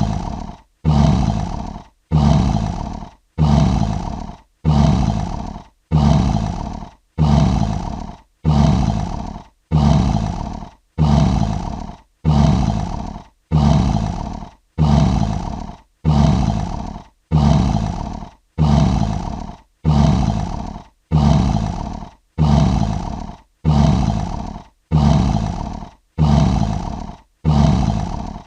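A short, deep lion roar call repeated in an even loop, one call about every 1.2 seconds, each starting abruptly and fading away.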